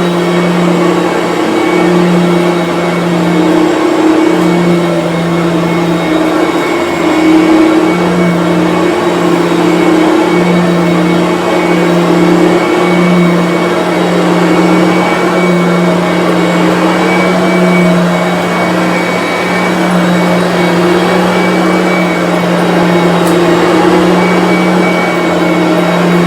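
Bissell BigGreen Commercial upright vacuum cleaner running on carpet, its motor and brush roll giving a loud, steady hum that wavers slightly as it is pushed along.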